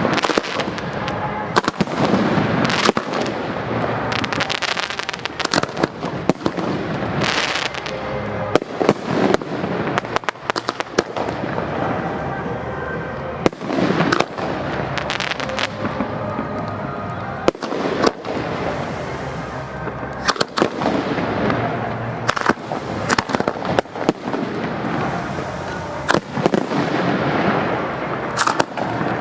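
Aerial fireworks display: a rapid, continuous string of shell bursts and bangs over a dense crackling haze, with voices and music faint underneath.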